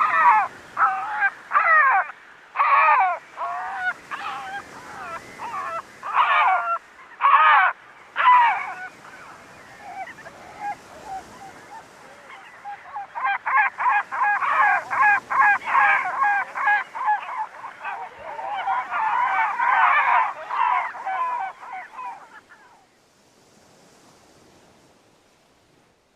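Bird calls: a string of loud, separate harsh calls, then after a pause a rapid run of short repeated notes that stops a few seconds before the end.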